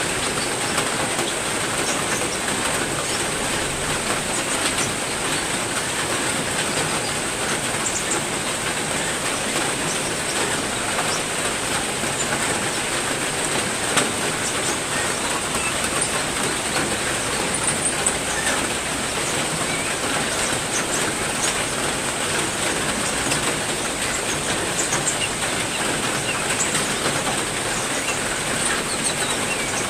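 Steady rain falling, with a few faint bird chirps now and then.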